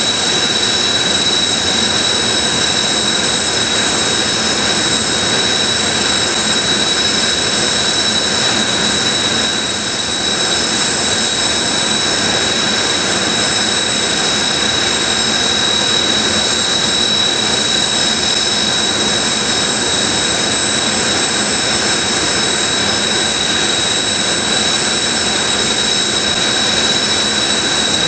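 Several Kawasaki T-4 jet trainers' turbofan engines idling on the ramp: a steady high whine over a broad rushing roar.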